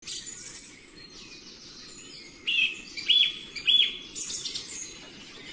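Small birds singing: high chirps and trills. The song grows louder in the middle, with two clear, arched whistled notes.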